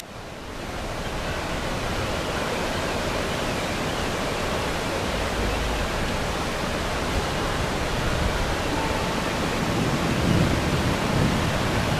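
Steady, loud rushing noise of storm wind and churning water, with no letup. It dips at the very start and builds back within about a second, and swells a little louder near the end.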